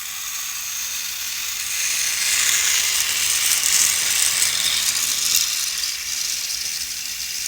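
Motorized toy train running along its track: a steady whirring gear rattle that grows louder about two seconds in, peaks in the middle and then eases off as the train passes.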